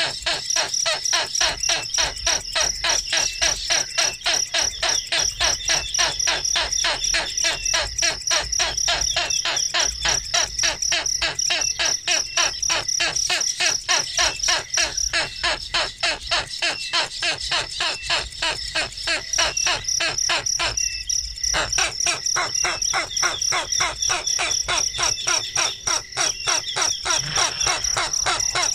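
Insects chirping in a fast, even pulse over a steady high-pitched drone, with a brief break in the pulsing about twenty seconds in.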